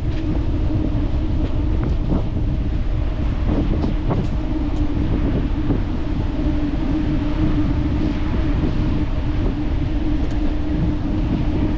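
Wind rushing over the microphone of a moving bicycle, with a steady hum under it and a few light clicks.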